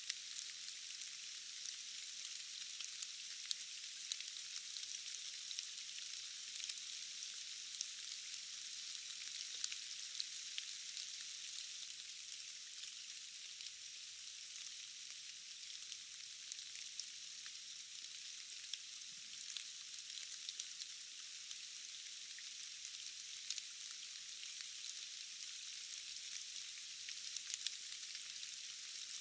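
Steady rain in a forest: an even, thin hiss made of many small drop ticks, with no low rumble.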